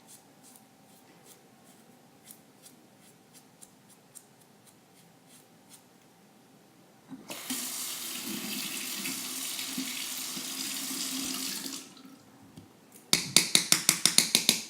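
Faint scattered ticks, then a bathroom tap runs water into the sink for about four and a half seconds and shuts off. Shortly after come about a dozen rapid sharp taps, the loudest sound here.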